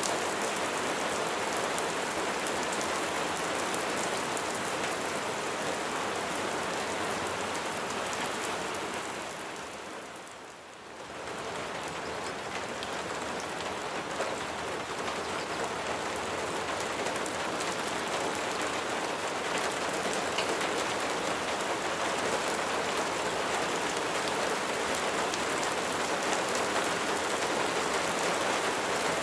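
Steady rain falling on surfaces, an even patter of raindrops, which fades down briefly about ten seconds in and then comes back up to the same level.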